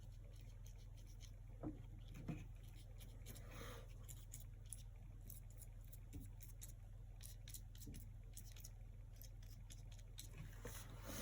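Faint scratchy ticks of a paintbrush working acrylic paint on a canvas, with two soft knocks about two seconds in, over a steady low electrical hum.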